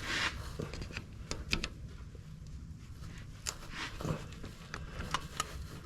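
Light clicks and small knocks of hand work on the tractor, scattered irregularly over a low steady hum.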